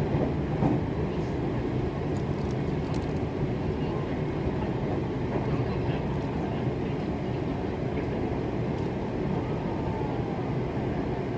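Meitetsu limited express train running at speed, heard from inside the passenger car: a steady rumble of the running gear with a low hum underneath.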